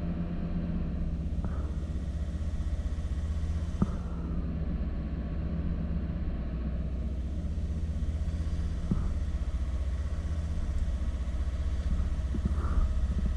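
2002 Volvo V70's 2.4-litre non-turbo inline-five petrol engine running steadily with the throttle held at a fixed position above idle. It has an intermittent misfire on cylinder 1, felt as a shake and hunting at this engine speed.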